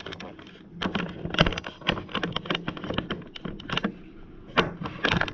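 An irregular clatter of sharp clicks and knocks as things are handled and moved around.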